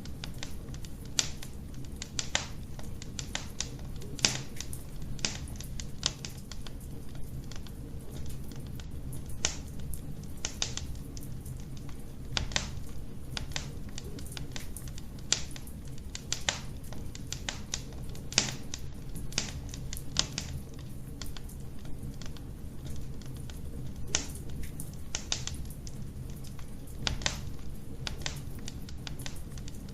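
Wood fire burning in a fireplace: irregular sharp crackles and pops, several a second at random, over a steady low rumble of the flames.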